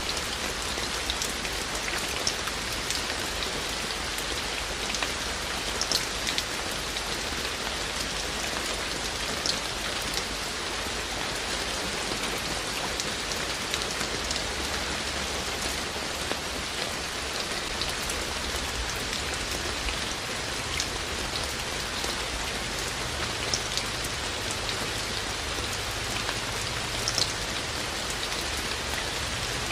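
Steady rain falling, a dense even hiss with individual raindrops ticking through it now and then.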